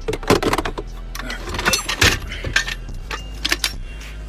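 Clattering and knocking of loose items being moved and rummaged through, with short clinks scattered throughout over a steady low hum.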